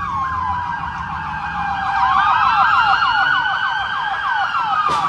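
Several police car sirens sounding at once: one in a fast repeating yelp, another in a slow wail that falls, climbs about two seconds in, holds, then falls away again.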